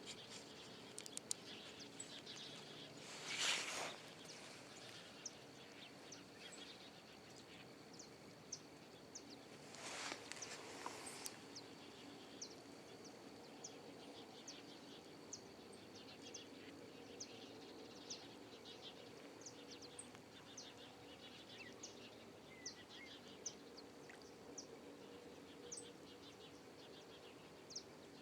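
Faint riverside ambience: scattered short high bird chirps over a steady high tone and a low hum, with two brief rushes of noise about three and ten seconds in.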